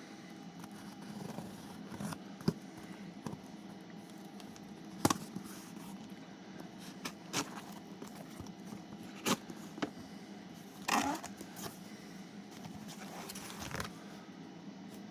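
Unwrapping a shipped parcel: scattered sharp clicks and a few short rasping rips and scrapes of tape and packaging being cut and pulled apart.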